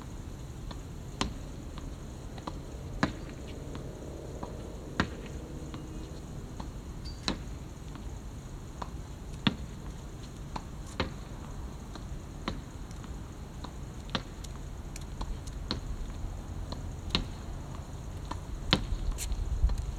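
Badminton racket strings striking shuttlecocks during practice: sharp single hits every second or two, unevenly spaced, over a low background rumble.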